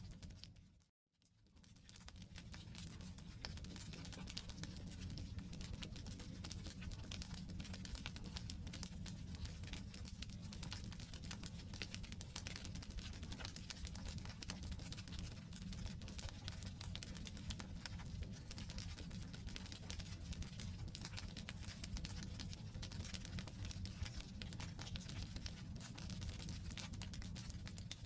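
Wood campfire burning: a dense, steady crackle of small pops and snaps over a low rumble of flame. The sound drops out for a moment about a second in, then returns.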